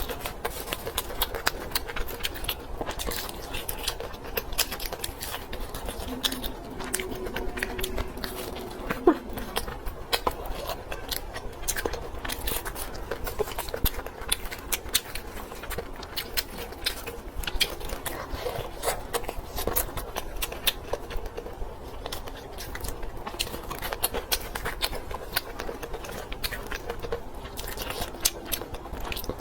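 Close-miked chewing and crunching of fried and grilled skewer food, with many quick, irregular crisp clicks and wet mouth smacks.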